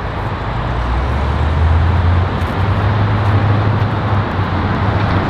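A car engine running steadily with a low hum, over a broad rushing noise.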